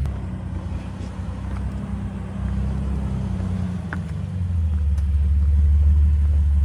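Jeep engine running as the vehicle drives a rock trail, growing louder about four and a half seconds in, with a light click near four seconds.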